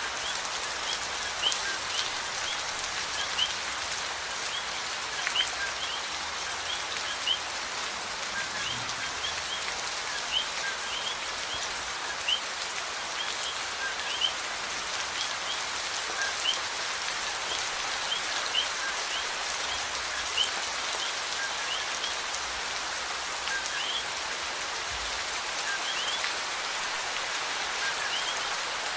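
Steady rain falling, an even hiss of many drops, with a louder single drop about every two seconds. Faint short high chirps are scattered through it.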